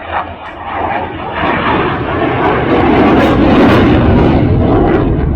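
An aircraft flying over during the air show's flying display: a loud engine rush that builds over a few seconds, peaks past the middle and begins to fade near the end.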